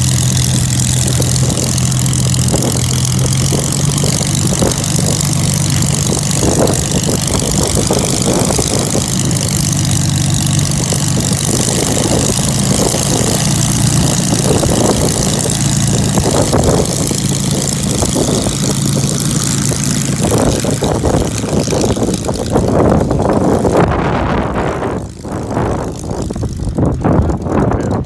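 Old piston aircraft engine running steadily with its propeller turning, a deep even hum; over the last few seconds the sound turns rougher and uneven, with brief dips in loudness.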